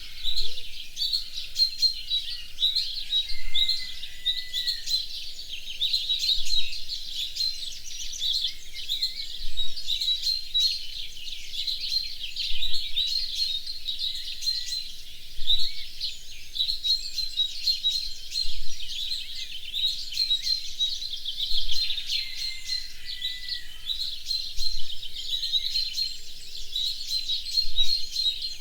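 Many songbirds chirping and singing at once: a dense, continuous chorus of high chirps and rapid trills, with an occasional lower sliding call.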